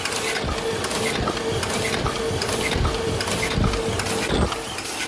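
Paper cup making machine running: continuous rhythmic mechanical clatter with a low thump repeating about every 0.8 seconds.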